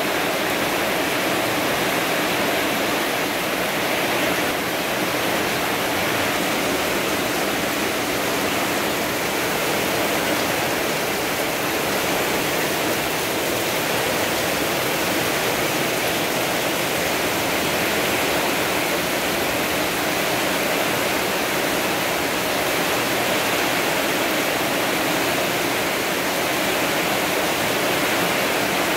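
Hard rain falling steadily, an even, unbroken hiss of water.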